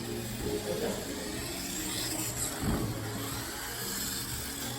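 Electric motors of radio-controlled race bikes running, a steady low hum that breaks off briefly a little past halfway.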